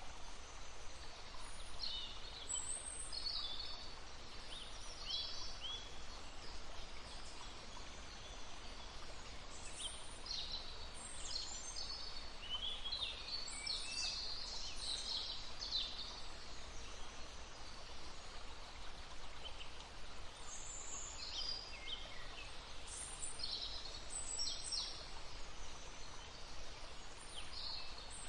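Several songbirds singing and calling in short, high chirping phrases over the steady babble of a stream. The birdsong is busiest between about ten and sixteen seconds in.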